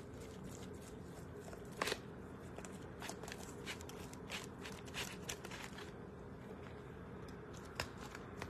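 Faint scattered clicks and taps of kitchen utensils being handled, the sharpest about two seconds in, over a steady low hum.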